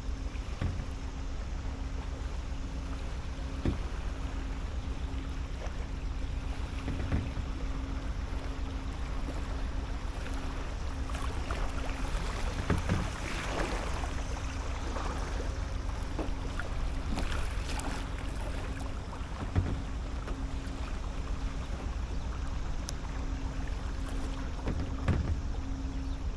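Kayak being paddled on a calm river: water swishing and splashing off the paddle, with a few sharp knocks of the paddle against the kayak, over a low wind rumble on the microphone.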